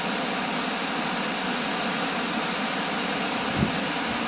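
Steady rushing of a waterfall, an even roar that holds at one level, with a brief low bump a little before the end.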